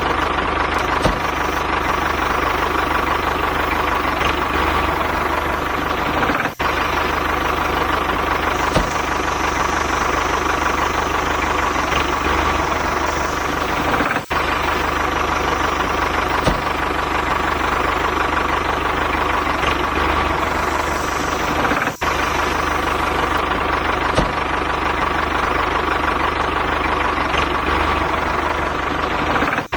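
A motor running steadily, like a small engine idling, with brief dropouts about every eight seconds.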